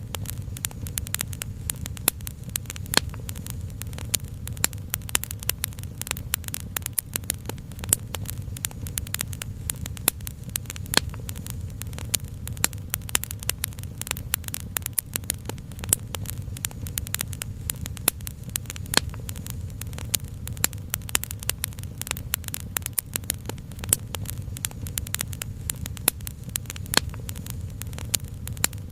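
Wood fire crackling steadily: a dense stream of small sharp pops and snaps over a constant low rumble.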